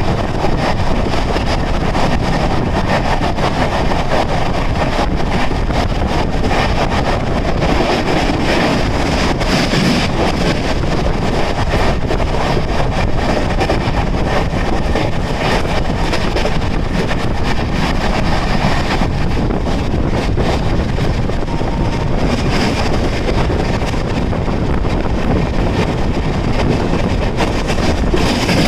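Indian Railways express train running through at speed: a steady, loud rush of wheels on rail and moving air, with quick clicks over the rail joints.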